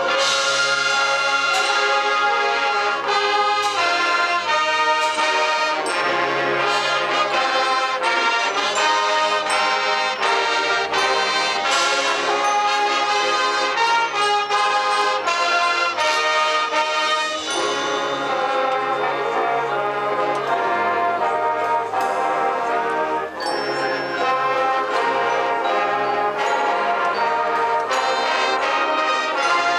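High school marching band playing, the brass section to the fore, with trombones and trumpets over steady percussion and low bass notes.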